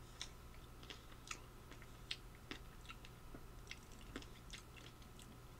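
Faint chewing: about a dozen small, sharp, scattered crunching ticks over several seconds.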